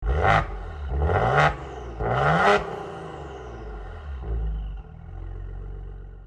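A car engine, which in this video would be the 2015 Maserati Ghibli's, revved in three quick blips about a second apart, each rising in pitch, then settling back to a steady low idle that fades out near the end.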